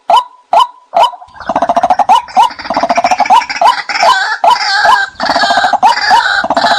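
White-breasted waterhen calls used as a hunting lure: sharp 'kwak' notes repeating about twice a second, joined about a second in by a dense gurgling chatter.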